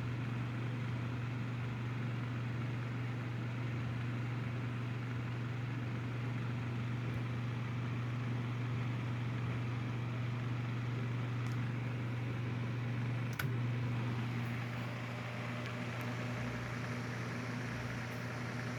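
Mainstays 9-inch personal box fan (model MBF-918) running on its low speed: a steady electric-motor hum with the rush of moving air. About two-thirds of the way through there is a single click, the speed switch being turned, and the fan runs on at medium speed.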